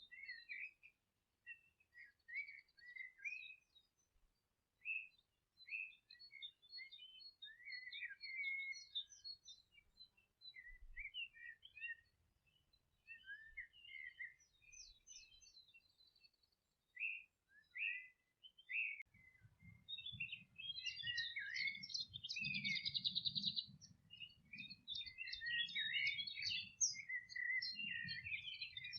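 Several wild birds singing and chirping in short, overlapping phrases and trills. About two-thirds of the way in the song grows denser and louder, and a low rumble joins underneath.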